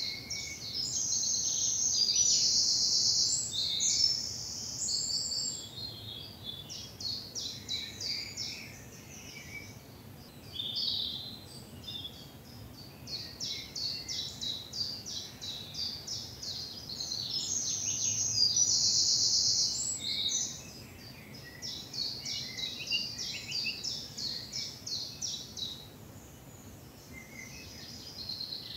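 Woodland songbirds singing in spring. A loud, high song with rapid notes and a fast trill in the middle comes twice, each time for several seconds, with quieter chirps from other birds in between.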